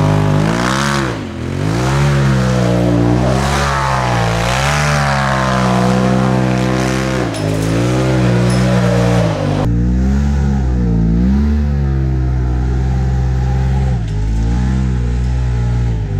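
Polaris RZR Turbo S's turbocharged twin-cylinder engine revving hard, its pitch swooping up and down again and again under repeated throttle. About ten seconds in, the sound abruptly turns duller.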